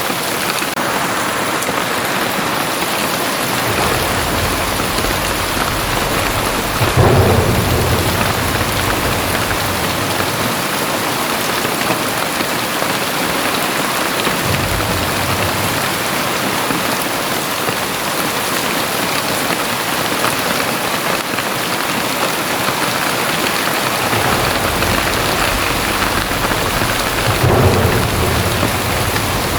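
Heavy rain pouring steadily, with low rolls of thunder rumbling under it several times. The loudest rumbles come about a quarter of the way in and near the end.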